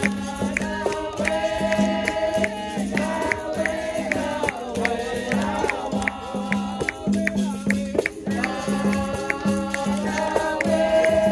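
Capoeira roda music: group singing over berimbau and percussion, with a steady beat of short rattling strikes a few times a second.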